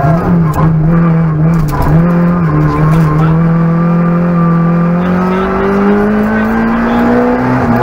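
Peugeot 106 Rallye N1's four-cylinder engine heard from inside the cabin, driven hard: the revs dip and pick up a few times in the first three seconds, then climb steadily for about five seconds before dropping sharply at the end with a gearshift.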